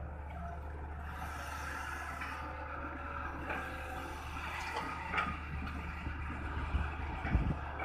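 Hitachi ZX200-1 hydraulic excavator working at steady engine speed while scooping soil, with a few scraping clanks about five seconds in and some low thuds near the end.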